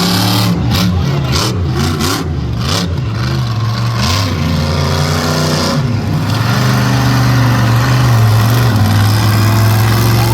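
Monster truck engine revving, its pitch swooping up and down several times, then settling into a steady loud run for the last few seconds.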